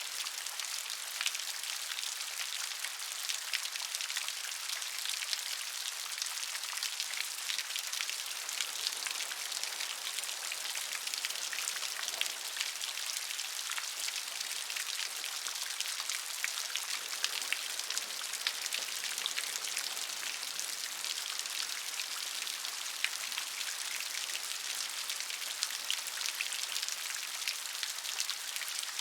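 Steady gentle rain falling, a dense even patter of many small drops on a surface.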